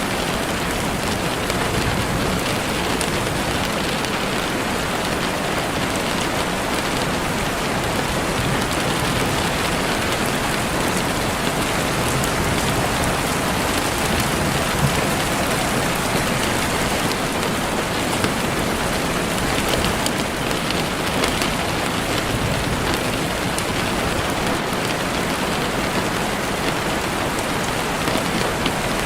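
Heavy rain falling steadily on leaves and the forest floor, with a dense patter of drops.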